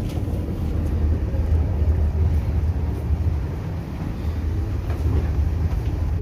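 Steady low rumble of an Italo high-speed train running, heard from inside the carriage.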